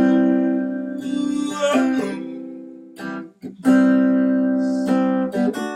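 Acoustic guitar strumming chords between sung lines, each chord left to ring and fade. There is a short break about three and a half seconds in before a fresh strum.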